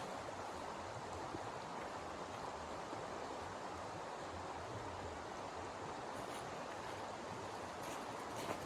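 Steady rushing noise with a few faint soft clicks near the end.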